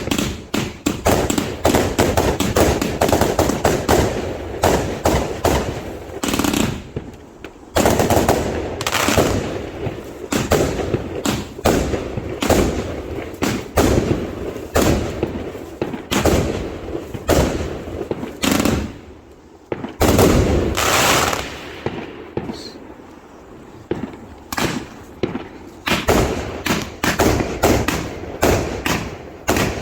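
A fireworks barrage: loud reports and bangs coming several a second in rapid succession, with short lulls between volleys.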